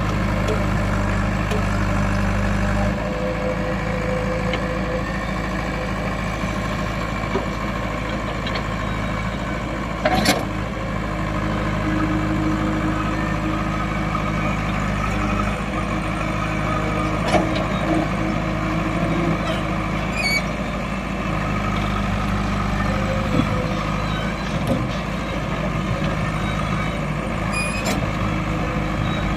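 Heavy diesel engines of a tractor and a backhoe loader running steadily, the engine note changing about three seconds in and again about halfway through. A sharp knock about ten seconds in.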